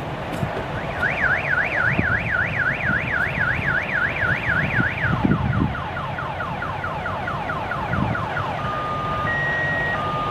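A car alarm cycling through its tones: a fast up-and-down warble, then a quick run of falling chirps, then steady beeps switching between two pitches. Underneath is the low rumble of a passing freight train.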